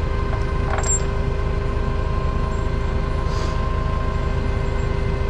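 Heavy-equipment diesel engine running steadily at idle, with a short metallic clink about a second in.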